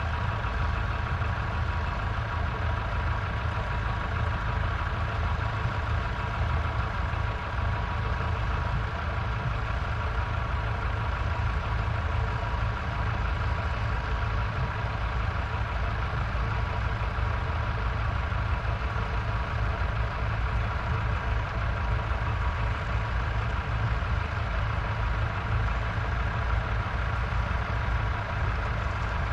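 Vintage tractor engine running steadily at a constant speed.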